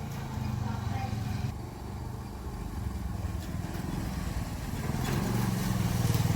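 A small engine or motor running steadily with a rapid low throb, growing louder toward the end, then cut off suddenly.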